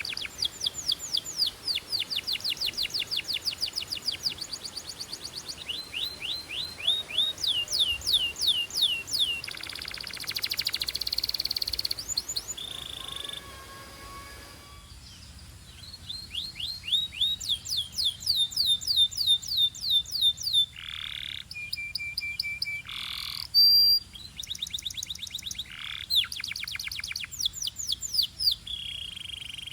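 Canaries singing: long, fast trills of quickly repeated falling notes, broken by held whistled notes and a few notes sweeping up or down in pitch.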